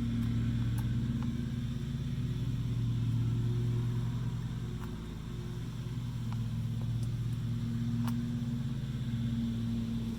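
An engine idling steadily with a low even hum, with a few light clicks over it.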